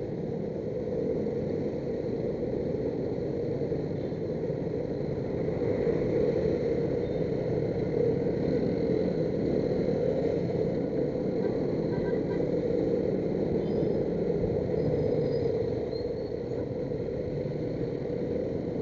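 Steady rumble of heavy road traffic, vehicle and motorcycle engines running together without a break.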